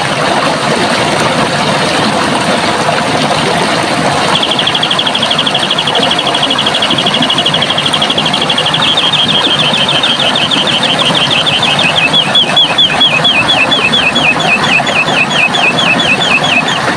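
Steady rush of running water. About four seconds in, a bird starts a fast high trill that slows into separate, clearly spaced notes and runs on until near the end.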